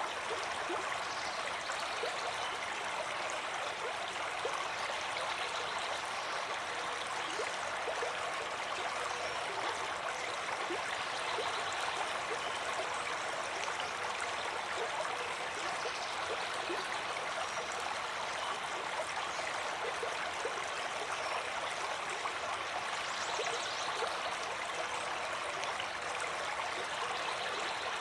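Water of a stream flowing steadily, with many small gurgles and splashes throughout.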